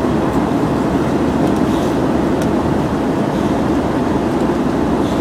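Steady rush of engine and airflow noise inside the cabin of an airliner in flight, even and unbroken.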